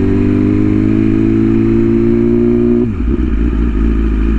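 BMW S1000RR inline-four engine pulling under throttle, its pitch climbing slowly. About three seconds in the throttle closes and the pitch drops sharply away into a lower, uneven rumble as the bike slows on the overrun.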